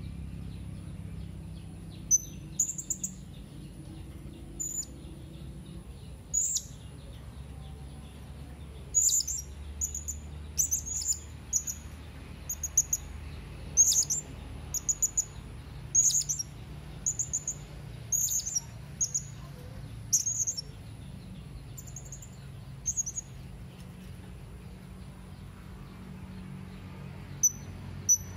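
Blue-crowned hanging parrot (serindit) calling: very high, sharp chirps given in quick clusters of two to five, repeated again and again, a lively rival-calling sequence of the kind used to lure wild serindit in.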